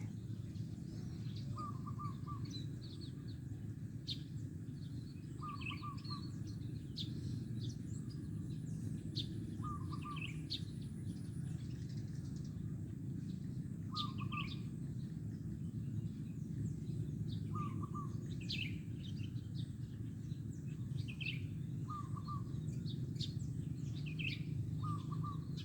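Zebra dove (perkutut) singing its short, staccato cooing phrase seven times, about every three to four seconds. Other small birds chirp higher up, and a steady low hum runs underneath.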